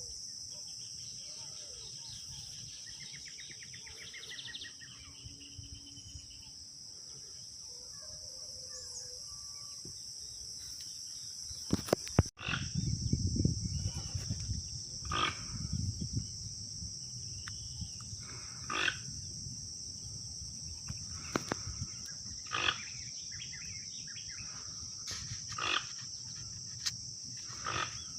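Steady high-pitched insect chirring outdoors. After a cut about twelve seconds in, a low rumble and a string of short, sharp sounds come every second or two.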